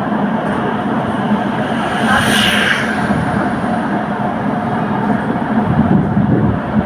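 Milan tram running along its rails, a steady rumble of wheels and running gear, with a brief hissing swell about two and a half seconds in.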